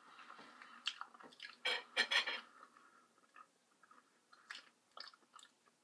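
A person chewing food, with soft wet mouth clicks and smacks coming in short bursts, the loudest cluster about two seconds in.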